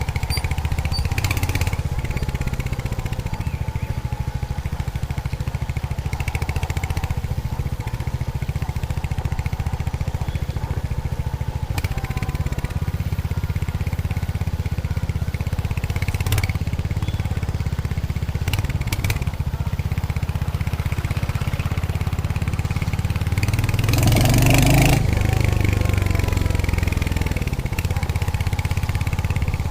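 Royal Enfield Hunter 350's single-cylinder engine and exhaust running at a steady cruise under the rider. About 24 seconds in there is a brief louder rush.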